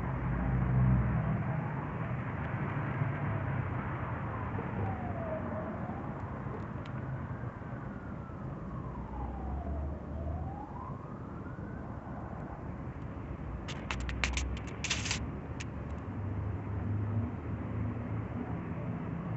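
An emergency-vehicle siren wailing, its pitch sweeping slowly down and up about twice, over a steady low rumble of road traffic. A quick cluster of clicks comes about three-quarters of the way through.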